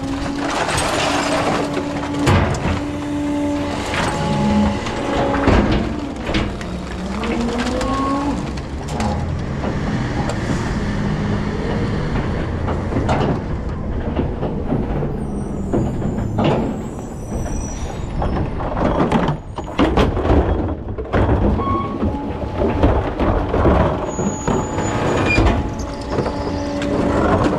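Rear-loader recycling truck at work: its diesel engine runs steadily under repeated metal clanks and knocks, with a few short rising whines early on and brief high squeals near the middle.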